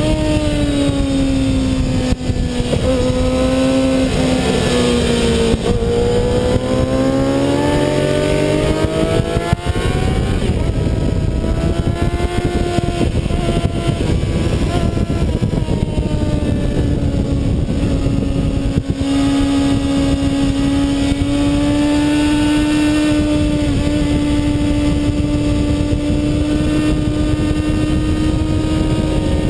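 2007 Kawasaki ZX-6R's inline-four engine at high revs under riding load. The revs drop a couple of seconds in, then climb again. From about ten seconds in they hold high and fairly steady for the rest, over a constant rush of noise.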